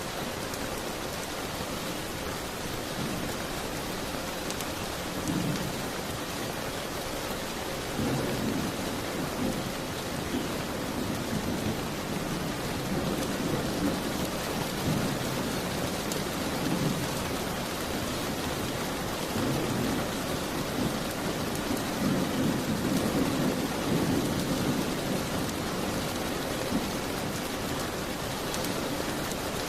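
Steady rain falling, with low rumbles of distant thunder swelling and fading in waves from about five seconds in until near the end.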